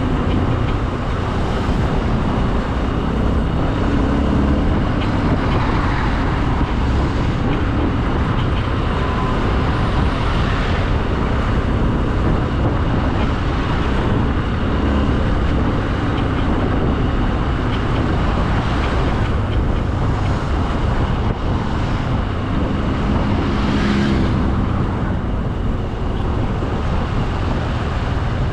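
Motorcycle running at road speed, its engine heard under steady wind rush on the camera's microphone.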